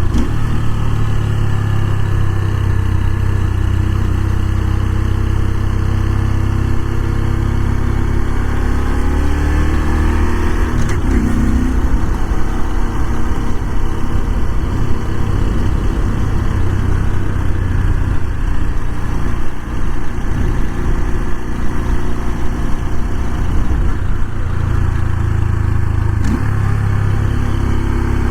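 Honda Super Cub 125's small single-cylinder engine and exhaust running while riding. The engine note slowly falls over the first ten seconds, shifts sharply about eleven seconds in, and changes again near the end as road speed changes.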